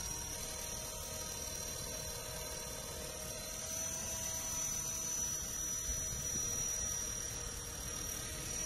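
Electric 450-size RC helicopter with a four-blade main rotor hovering: a steady high-pitched motor whine over lower humming tones and a rough low rumble of rotor wash.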